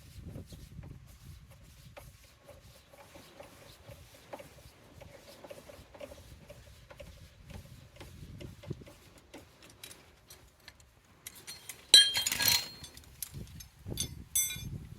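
Low handling and shuffling noises, then a loud metal clank with ringing about twelve seconds in and a quicker cluster of metallic clinks near the end, as metal tools or parts are set down or knocked together.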